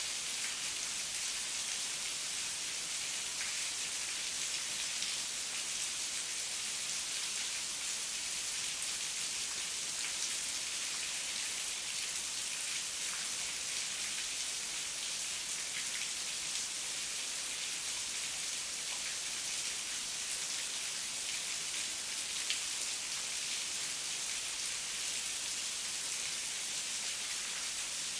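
Heavy rain falling steadily, a dense even hiss of drops with fine pattering on the surfaces it hits.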